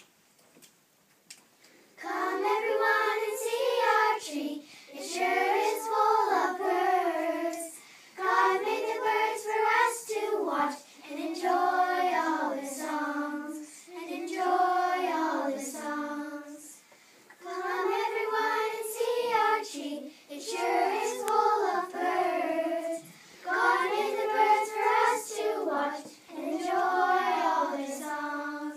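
Children's voices singing a song together, starting about two seconds in, in short phrases of about two seconds each with brief breaths between them.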